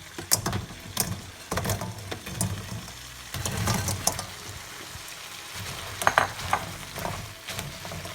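Pieces of fried chicken going into a pan of sizzling yogurt masala and being stirred. A spoon scrapes and knocks irregularly against the pan over a steady frying sizzle.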